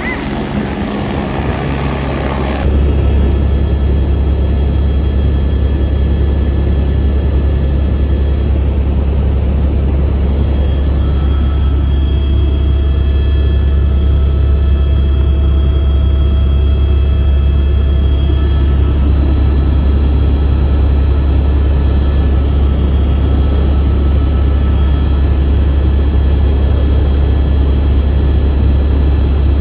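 Helicopter in flight: a steady, deep drone of rotor and engine with faint steady whining tones above it. About three seconds in, it suddenly becomes louder and deeper, then holds steady.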